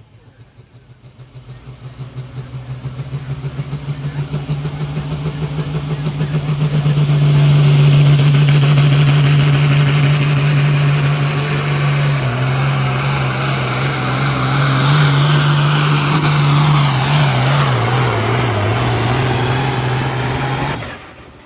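Diesel pulling tractor at full throttle making a pull down the track: the engine builds over the first several seconds, holds loud and steady, then cuts off sharply near the end as the run finishes.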